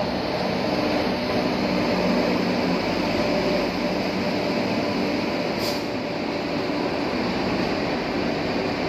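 Indian Railways WAP-7 electric locomotive and its coaches running past along the platform: a steady rumble of wheels on rail with the locomotive's hum, stronger at first, and a short hiss about six seconds in.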